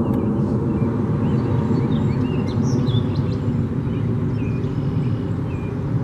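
Birds chirping, a cluster of short calls in the first half and then about one a second, over a loud steady low rumble.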